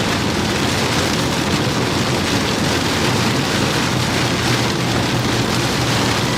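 Heavy rain hitting a moving vehicle, heard from inside the cabin as a loud, steady wash of noise over a low road and engine hum.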